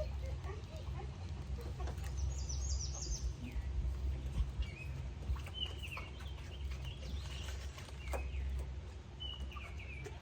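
Birds chirping: a quick run of high notes about two seconds in, then short falling calls repeated through the rest, over a steady low rumble with a few faint ticks.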